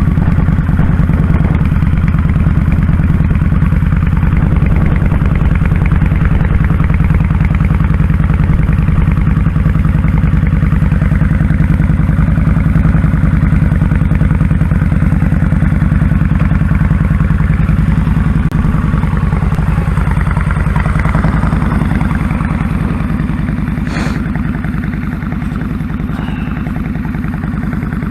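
2001 Kawasaki Drifter 1500's V-twin engine running steadily while the motorcycle is ridden, easing off somewhat about twenty seconds in. A single sharp click comes near the end.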